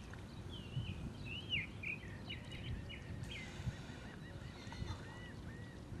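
Birds calling with short swooping whistled notes, then a quick run of repeated short arching notes in the second half, over a low rumble.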